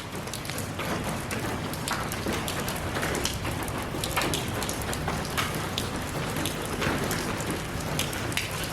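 Steady rain falling, a continuous hiss dotted with many sharp ticks of individual drops striking close by.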